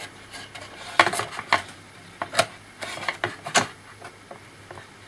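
Hands working a laptop's circuit board and its stuck-on shielding loose: scattered clicks, taps and light scrapes, the sharpest about a second in, two and a half seconds in and three and a half seconds in.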